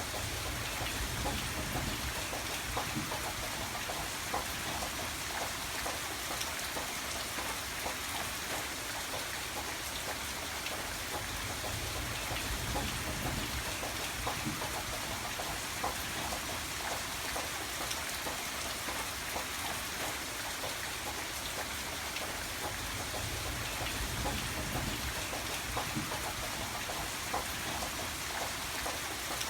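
Steady rain falling, with many separate drops pattering on a surface and a low rumble that swells a few times.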